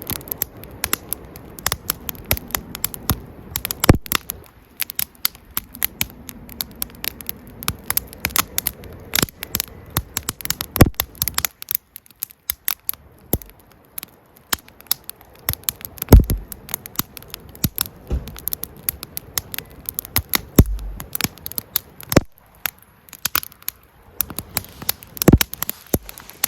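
Campfire crackling: burning firewood giving off many irregular sharp snaps, with a few louder pops.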